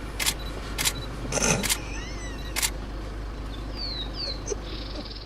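Four sharp clicks in the first three seconds over a steady low hum, with a few faint short chirps later on.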